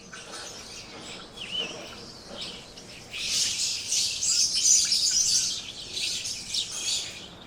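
Green parrot giving high-pitched chirping calls, which become a dense, louder run from about three to six seconds in.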